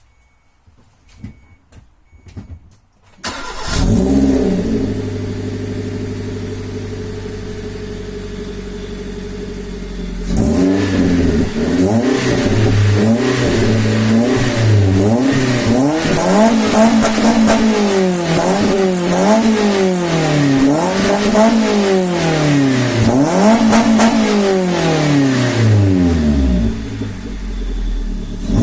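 Suzuki M13A 1.3-litre four-cylinder engine breathing through a straight-pipe exhaust with a single rear resonator and no catalytic converter, started warm about three seconds in and idling. From about ten seconds in it is revved repeatedly, around a dozen blips that rise and fall in pitch, before settling back to idle near the end.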